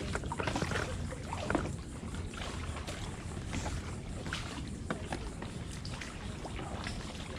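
Kayak paddling: paddle blades dipping and splashing in the water, with scattered small knocks and drips, over a steady low rumble.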